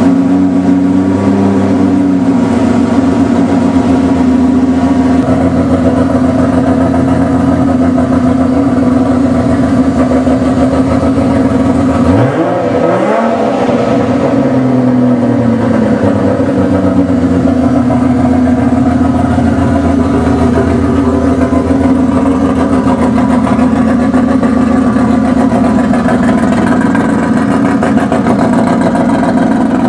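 Freshly built Nissan RB30 straight-six running at a raised idle of about 1500 rpm while its new camshafts bed in. The engine holds steady except once, about twelve seconds in, when the revs rise briefly and settle back.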